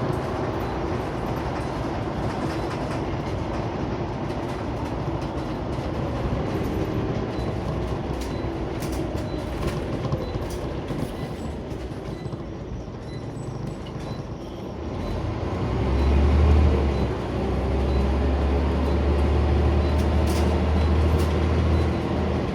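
Scania Omnicity single-decker bus heard from inside while running: steady engine and road rumble with small interior rattles. About fifteen seconds in, a deep engine drone swells and stays louder as the engine pulls harder.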